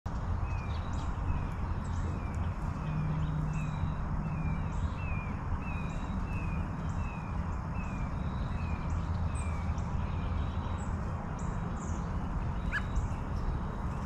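A bird calling a short downslurred note over and over, about two to three times a second, stopping about ten seconds in, over a steady low rumble.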